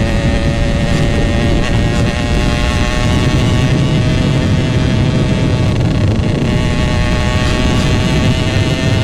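Yamaha RX-King two-stroke single-cylinder engine running at steady revs under way through a GRT18 aftermarket exhaust, a loud, even drone, with wind and road rumble on the microphone.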